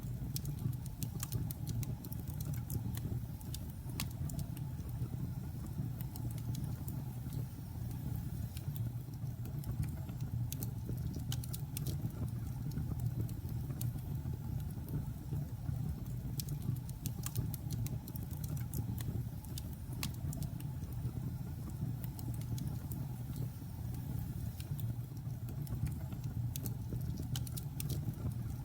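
Logs burning in a fireplace: a steady low rumble from the fire with scattered sharp crackles and pops from the wood, coming in irregular clusters.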